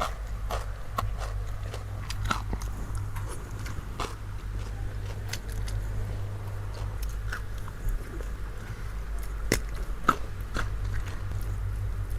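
A person chewing food close to the microphone, with irregular crisp crunches and mouth clicks, over a steady low hum.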